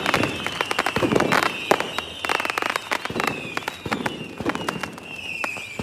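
Fireworks going off: dense, rapid crackling pops mixed with repeated whistles that fall in pitch, about one a second, and low bursts.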